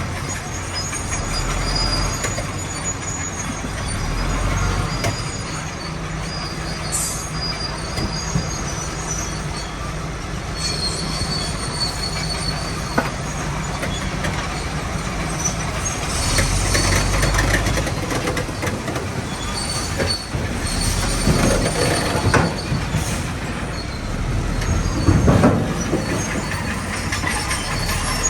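Bulldozer at work: its diesel engine runs steadily while the steel tracks squeal and clank, with the engine surging under load a couple of times.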